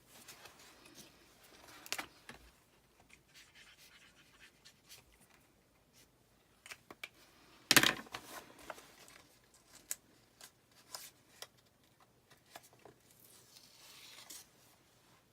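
Plastic squeegee scraping chalk paste across an adhesive Chalk Couture transfer, with scattered rubs and clicks of crafting work and one sharp knock about eight seconds in.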